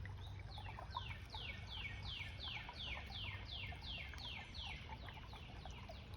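A bird singing faintly: a long run of about a dozen evenly spaced notes, each sliding down in pitch, at roughly two to three notes a second.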